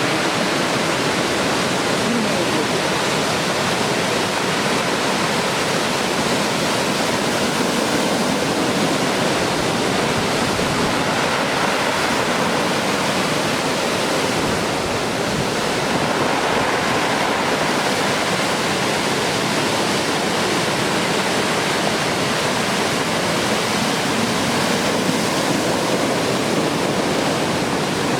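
Heavy typhoon-swell surf: large closeout waves breaking onto the beach as a continuous, steady wash of noise.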